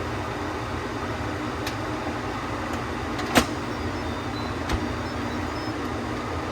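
Instant Pot's pressure-release valve venting steam in a steady hiss after a low-pressure cook, with a sharp click about halfway through.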